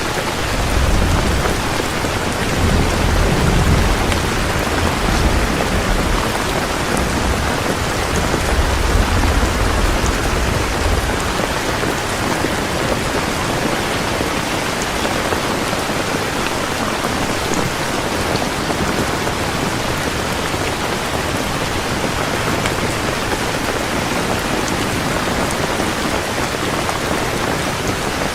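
Heavy rain falling steadily, a dense even hiss of drops. A low rumble of thunder rolls under it for roughly the first eleven seconds, then dies away.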